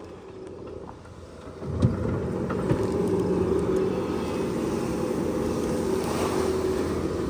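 A tractor engine running steadily. It becomes suddenly much louder with a knock a little under two seconds in, then holds a steady hum.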